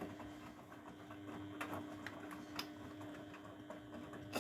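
Grundig washing machine running mid-wash: a steady motor hum with a few sharp clicks, the loudest near the end.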